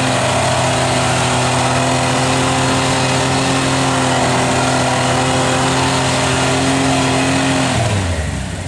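Toyota rock crawler's engine held at high, steady revs under load while climbing railroad ties, then the revs drop off near the end.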